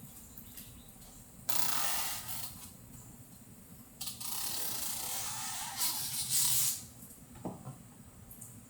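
Adhesive tape being pulled off with a crackly rasp, twice: a pull of about a second, then a longer one of nearly three seconds, with a short click after.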